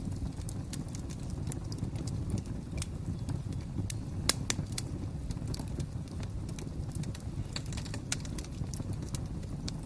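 Wood fire crackling: scattered sharp pops and snaps over a low, steady rumble of the flames, with one louder pop about four seconds in.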